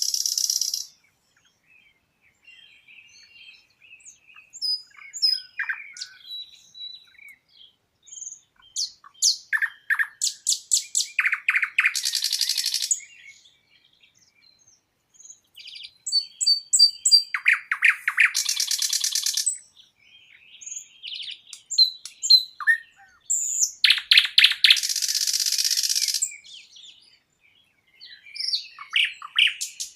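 Songbirds singing. A loud phrase of quick repeated notes ending in a buzzy rattle comes about every six seconds, with softer chirps and short whistles between.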